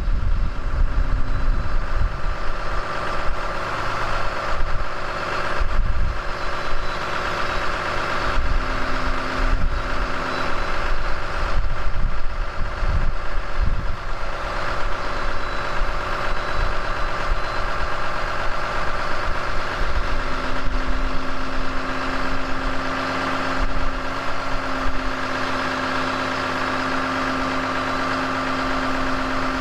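The Ram 5500's 6.7-litre Cummins turbo-diesel inline-six idling steadily shortly after a cold start at 0°F, with no block heater, only the preheat cycle. A steady hum joins the idle about eight seconds in for a couple of seconds, and again for the last ten seconds.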